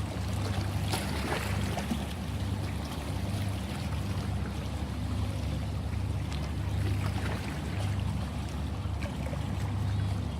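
Sea waves washing and splashing, a steady low rumble that swells and eases every second or two, with scattered small crackling splashes.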